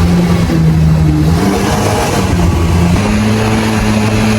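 Jet boat engine running hard under throttle, its pitch stepping up a little about a second and a half in and again near three seconds, over a steady rush of noise.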